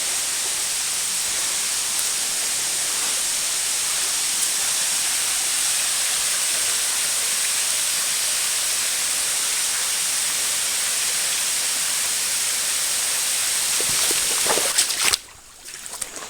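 Steady rushing river water, an even hiss with no let-up. It cuts off abruptly near the end, and a few faint clicks and rustles follow.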